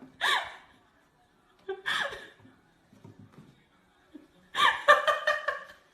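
High-pitched laughter in separate bursts: a short one near the start, another about two seconds in, and a longer fit of laughing near the end.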